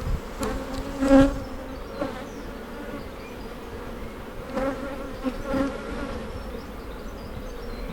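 Honey bees buzzing around an opened hive: a steady drone that swells briefly about a second in and twice more around the five-second mark.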